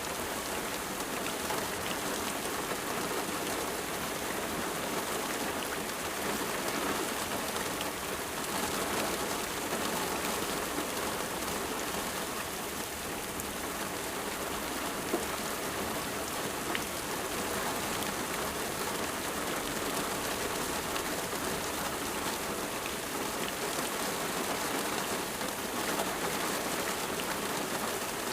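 Steady rain falling on a surface, an even hiss with scattered individual drop ticks and one sharper drop about halfway through.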